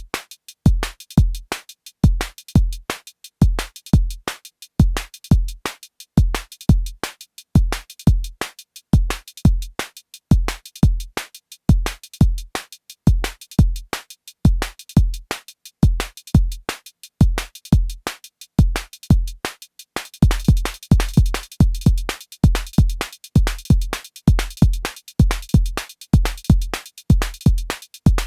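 Arturia DrumBrute Impact analog drum machine playing a looping beat of deep kick drums and ticking hi-hats. About twenty seconds in, the high end gets busier and brighter as more hat or cymbal hits come in.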